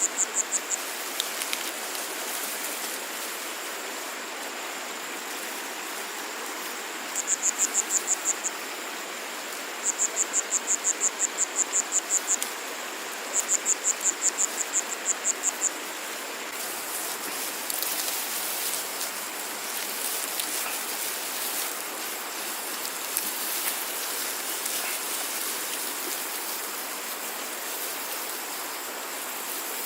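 An insect calling in bouts of sharp, high, evenly spaced chirps, about five a second, over a steady hiss. The bouts come right at the start, at about 7 s, from about 10 to 12 s and from about 13 to 16 s. Later the hiss grows grainier, with scattered ticks.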